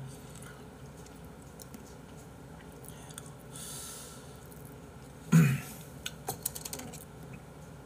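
Quiet chewing of raw beef, with soft wet mouth clicks. About five seconds in, a short vocal sound from the eater stands out as the loudest moment.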